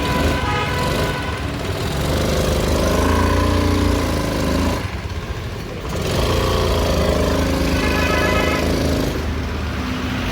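Honda Activa scooter's single-cylinder four-stroke engine running and being revved, dropping back briefly about five seconds in. The mechanic judges its piston and rings worn, as shown by the heavy smoke it blows.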